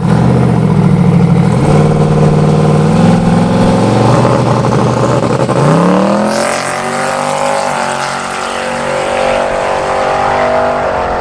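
Car engine running loudly at a steady speed, then revving up in pitch about six seconds in and holding at the higher note.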